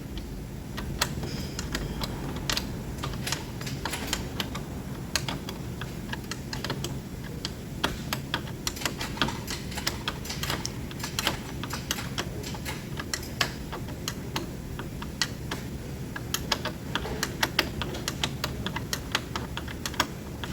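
Engine running with a steady low hum and rapid, irregular clicking over it. The clicking is the noise on starting that the mechanic takes for the chain.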